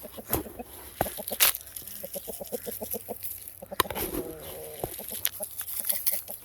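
Chickens clucking in a quick run of short, repeated notes, with a few sharp clicks and knocks scattered through.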